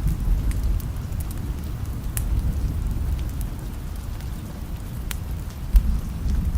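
Rain with a wood fire crackling: a steady low rumble under an even hiss of rain, with a few sharp fire crackles and one brief low thump near the end.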